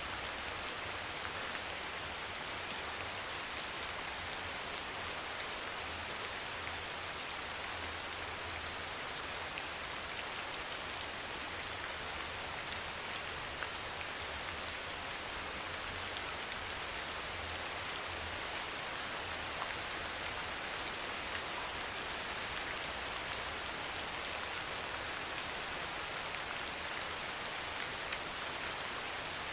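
Steady soft rain: an even hiss of rainfall with scattered drop ticks, over a low steady rumble.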